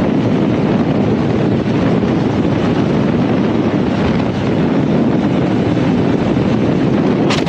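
Loud, steady wind rush buffeting a motorcycle camera's microphone while riding, which cuts off suddenly at the very end.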